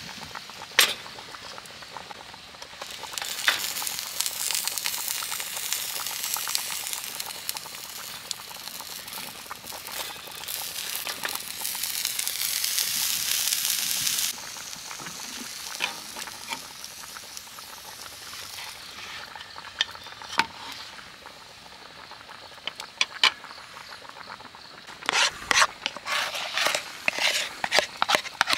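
Food sizzling in a hot pan: a hiss that swells about three seconds in and stops abruptly around halfway. Sharp clicks and taps are scattered throughout, with a quick run of them near the end.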